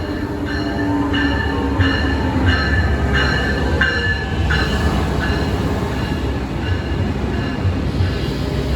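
Brightline train's Graham-White electronic bell (E-Bell) ringing in a steady rhythm, about one strike every 0.6 seconds, fading out about four seconds in. Under it runs the steady low rumble of the moving train.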